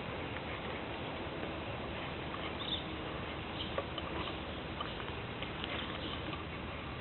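Forest ambience: a steady hiss with scattered small ticks and a few short, high chirps, one clearer chirp a little under three seconds in.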